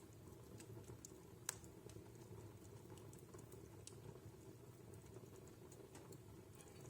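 Wood fire in a fireplace crackling softly: scattered small snaps and ticks over a low steady rush of the flames, with one sharper, louder pop about one and a half seconds in.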